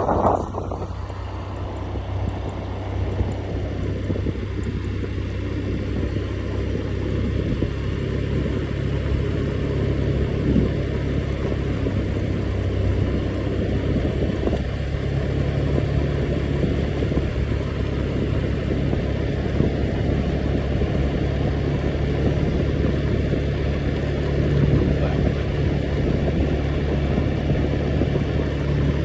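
An engine running steadily with a low, even hum and a rushing noise over it; the hum's pitch shifts slightly a few times.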